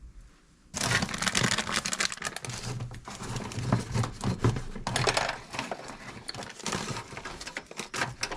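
Rummaging through a jumble of small hard items, a dense run of rattling clicks and rustles that starts suddenly about a second in.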